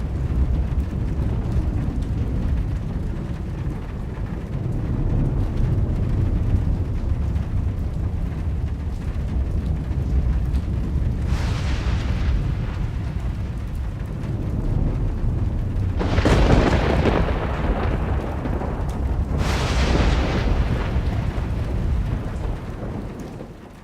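Thunderstorm: a continuous low rumble of thunder, broken by three louder thunder crashes about 11, 16 and 19 seconds in, each dying away over a couple of seconds. The sound fades out at the end.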